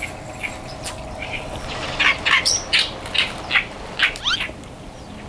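Birds calling: a quick series of about eight short squawks, some sliding down in pitch, starting about two seconds in and stopping after a couple of seconds.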